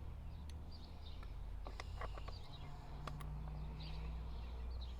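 Faint bird chirps over a low steady hum, with a few sharp metallic clicks about two to three seconds in from a socket wrench being worked on the chainsaw's bolts.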